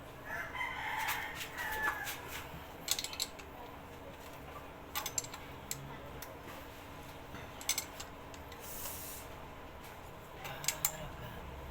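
Scattered light clicks and clinks of metal tools and engine parts being handled during a motorcycle engine overhaul, with a brief spray hiss about nine seconds in.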